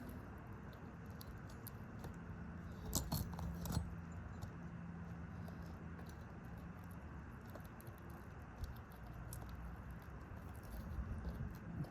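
Scattered light clicks and scrapes of a metal shingle repair tool working under roof shingles, with a short burst of louder clicks about three seconds in, over a low steady hum.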